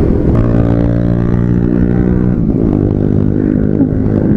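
Motorcycle engine running at a steady pitch while riding, easing slightly lower in pitch about halfway through, with wind rumbling on the microphone.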